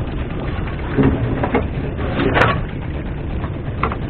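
Steady low rumble of wind and a small boat at sea, with a few short knocks, the loudest about two and a half seconds in.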